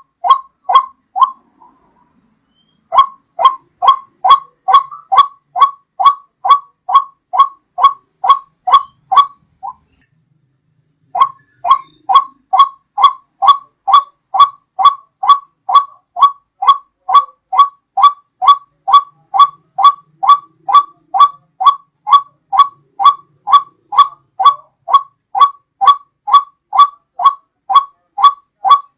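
White-breasted waterhen (ruak-ruak) lure call: a short call note repeated about twice a second, very regularly. The series breaks off twice, for a second or two, once just after the start and again near the middle.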